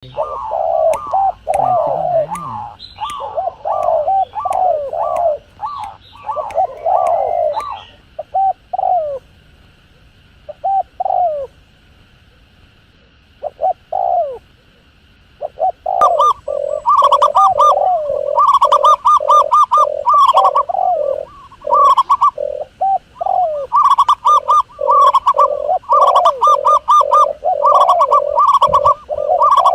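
Doves cooing in rapid series of short repeated coos, several birds overlapping. The calls thin out to a brief lull about twelve seconds in, then come back denser and louder from about sixteen seconds in.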